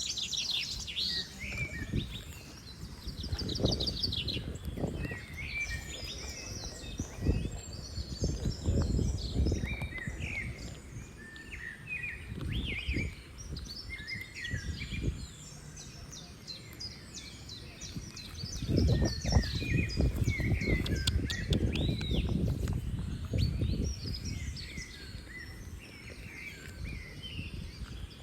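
Many small birds chirping and trilling at once, with repeated low rumbling noise coming and going underneath.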